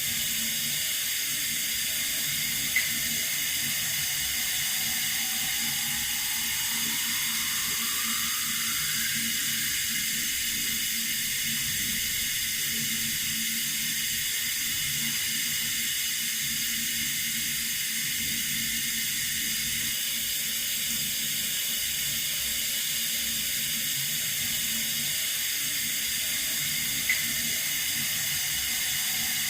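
Water running steadily from a tap, a constant hiss, with a short click about three seconds in and again near the end.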